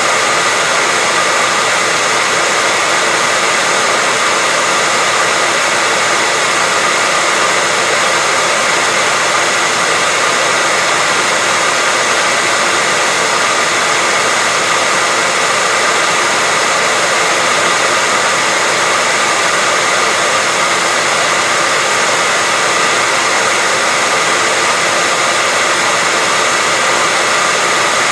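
Hair dryer running steadily: a constant, even blowing hiss with a faint high whine from the motor and fan, unchanging throughout.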